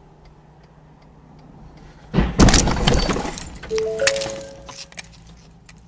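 A car crash recorded by a dashcam: a sudden loud impact about two seconds in, followed by glass shattering and debris clattering, which fades over about three seconds.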